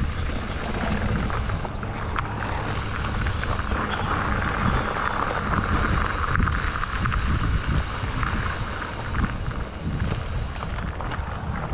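Steady wind buffeting on a helmet or bike camera microphone, mixed with the rolling rumble of a moving e-bike.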